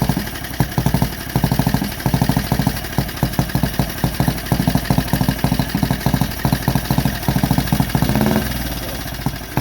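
A 1928 Benelli 175 Turismo's single-cylinder engine runs at an uneven idle. Its firing pulses come irregularly, with short gaps, and near the end they run together briefly into a smoother sound.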